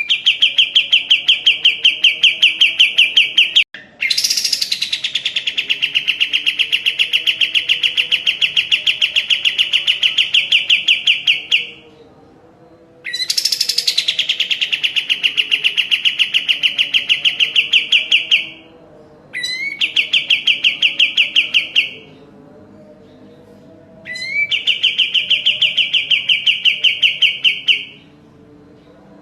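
A kapas tembak songbird singing long, rapid trills. Each phrase opens with a quick rising note and then holds a fast, even pulsing for several seconds, with short pauses between phrases.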